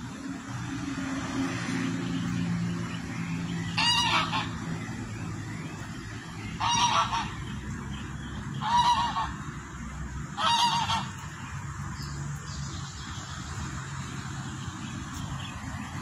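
A bird honking four times, each call about half a second long and about two seconds apart, over a low steady rumble.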